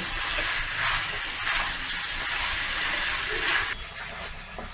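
Macaroni and vegetables sizzling as they fry in a non-stick wok while being stirred with a spatula; the sizzle drops away near the end.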